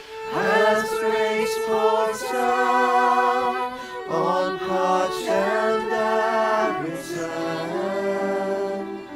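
Worship music: voices singing slow sustained phrases with vibrato over held low accompanying notes.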